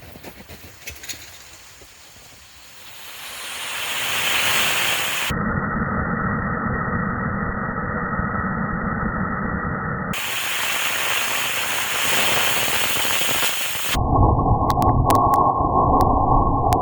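Homemade potassium nitrate and sugar rocket motor firing: after a few faint crackles it lights, and over about two seconds it builds into a loud, steady rushing hiss. Partway through, and again near the end, the hiss turns deeper and duller.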